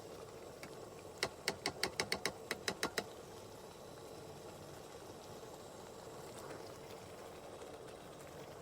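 A spoon knocking against a cooking pot: about ten quick clicks in under two seconds, a little over a second in, over a steady low hum.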